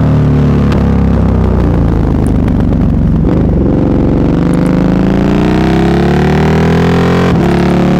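Sport motorcycle with an aftermarket SC-Project exhaust, loud, accelerating hard. The engine pitch climbs steadily through a gear, with an upshift about three seconds in and another near the end.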